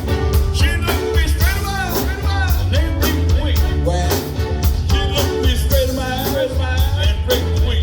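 Live blues band playing with a steady drum beat and heavy bass, with a lead melody line sliding and wavering in pitch over it.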